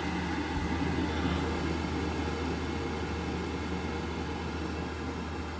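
Worcester-Bosch gas boiler running: a steady whirring rush over a low hum.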